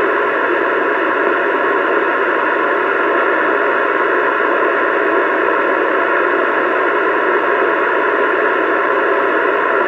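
CB radio static: a steady, loud hiss from the radio's speaker that cuts off near the end as a voice comes through.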